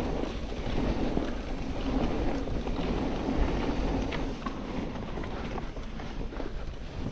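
Mountain bike rolling down a dry, dusty dirt trail: steady tyre and trail noise mixed with wind buffeting the microphone, with a few small rattles and ticks.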